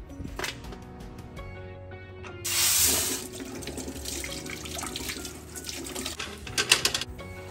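Water running from a kitchen tap into a pot in a stainless steel sink. It starts suddenly about two and a half seconds in, loudest at first, then runs on more evenly, with a louder splashing flurry just before the end.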